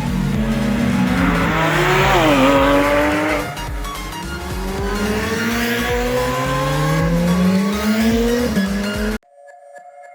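Car engine pulling hard, its pitch climbing slowly and dropping sharply at each gear change, as on an upshift. About nine seconds in the engine sound cuts off abruptly and soft music with steady tones takes over.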